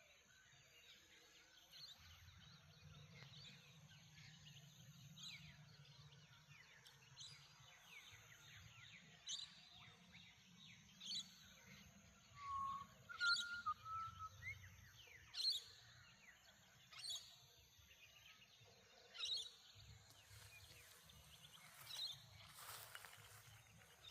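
Faint dawn bird chorus: many small twittering chirps, with a sharp high call repeating about every two seconds and a brief lower whistle about halfway through, over a soft low rumble of distant surf. Near the end, breathy washes of wind or wave noise swell in.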